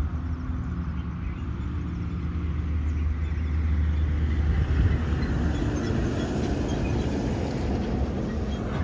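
Heavy Tata diesel truck driving past on a highway. A low steady engine drone for the first few seconds gives way to louder tyre and road noise as it goes by.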